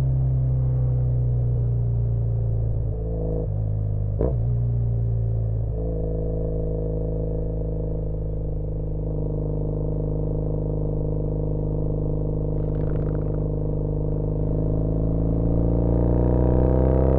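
2013 Triumph Bonneville T100's air-cooled parallel-twin engine through an aftermarket exhaust, running steadily under way with a brief dip and recovery in revs about four seconds in. The revs climb steadily near the end as the bike accelerates.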